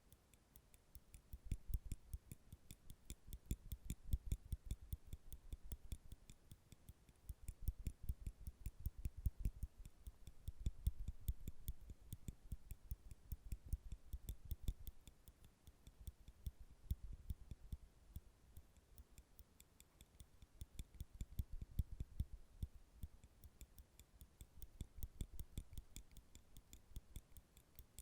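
Metal nail clippers handled for ASMR: fast runs of small sharp clicks and taps, coming in bursts that swell and fade.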